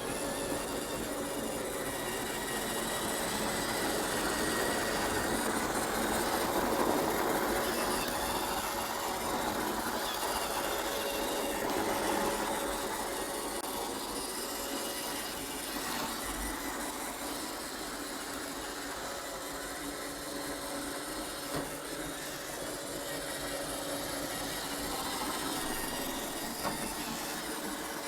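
iRobot Roomba 500-series robot vacuum cleaner running, its motor and brushes making a steady mechanical drone that swells a little for several seconds and then evens out.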